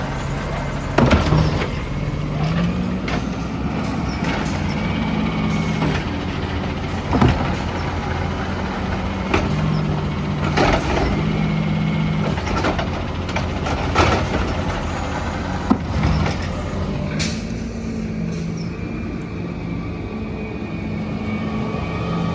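Peterbilt 320 garbage truck's engine running, its speed stepping up and down several times, with sharp knocks and clanks every few seconds.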